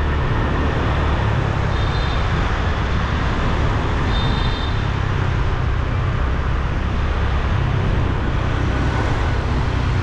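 Motorbike running at riding speed, with steady road and wind noise, in surrounding traffic.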